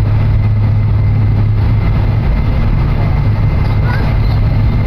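Cabin noise inside an E7/W7-series Hokuriku Shinkansen running at speed: a steady, loud low hum over an even rushing noise.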